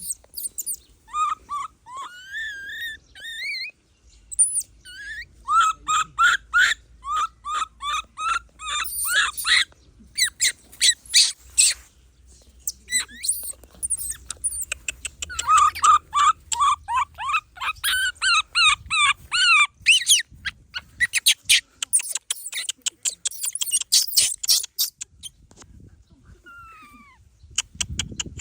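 Baby monkey calling in long runs of quick, high-pitched squeaks and cries, with short pauses between the runs.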